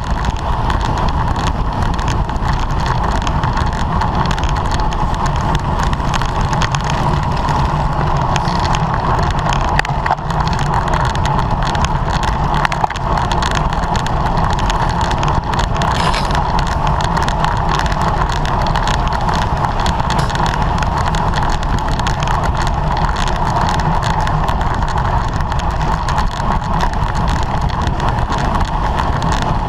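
Steady rush of wind and road noise on a camera riding on a racing bicycle at speed in a criterium pack.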